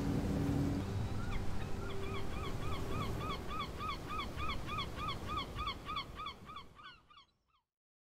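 Birds calling in a rapid, even series of short falling calls, about four a second, over a low rumble, fading out near the end.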